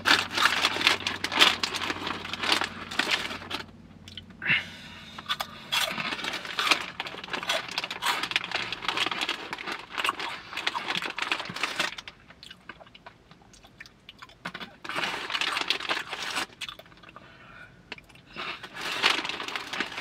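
Close-up chewing of crunchy Lime Hot Cheetos: irregular crunching in long stretches, pausing for about two seconds a little past the middle, then starting up again in shorter runs.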